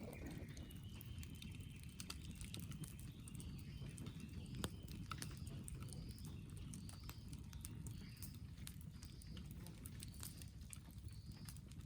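Wood fire crackling with scattered sharp pops over a low steady rush. A bird calls repeatedly in the background, with short high notes about once a second from a few seconds in.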